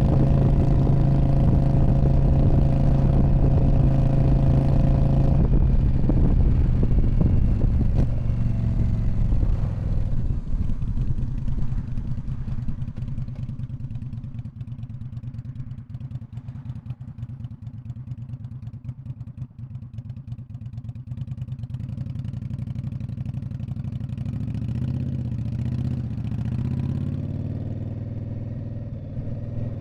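2019 Indian Scout Bobber's 1133 cc V-twin running through a Freedom Performance Radical Radius exhaust. It holds a steady, loud note at first, then comes off the throttle about five seconds in, and the note falls and quietens to a low, pulsing lope. Over the last several seconds the engine picks up again, its pitch rising and falling as the throttle comes back on.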